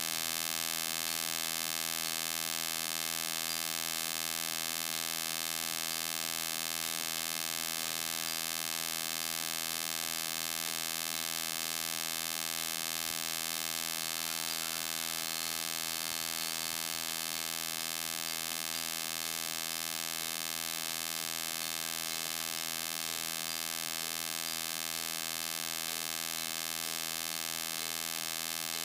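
Steady electrical mains hum, a buzzy drone of many even tones that holds level throughout, with no music playing.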